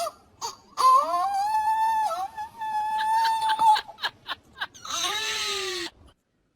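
An animal's long, drawn-out wailing call at one steady pitch, followed by a few short clicks and a second, shorter call that falls in pitch. The sound then cuts off suddenly.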